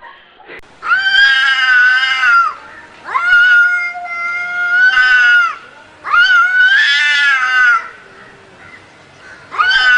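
A cat yowling in long, drawn-out calls: three held cries with short pauses between, and a fourth starting near the end.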